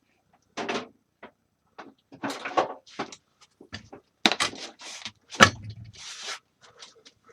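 Irregular handling noises in a workshop: a series of short knocks, clicks and scrapes as tools and small objects are moved about and set down, with a heavier thud about five and a half seconds in.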